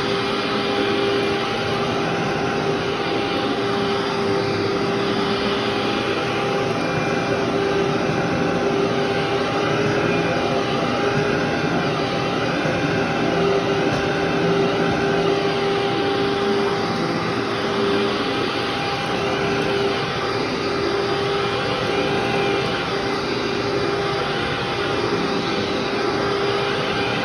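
Vacuum cleaner running continuously over carpet, with a steady motor whine. Its pitch rises and falls in repeated arcs, about every second or two, as the head is pushed and pulled.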